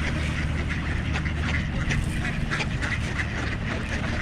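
A flock of ducks quacking, many short calls overlapping, as they feed on scattered bird seed. A low steady hum runs underneath.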